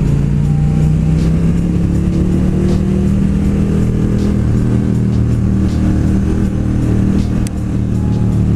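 Motorcycle engine pulling steadily under way, its low note rising slightly over the first few seconds and then holding even.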